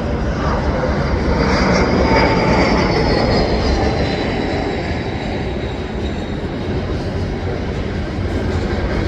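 A jet airliner on final approach passes overhead, its engine whine slowly falling in pitch. Under it runs the steady rumble of a freight train's cars rolling by below.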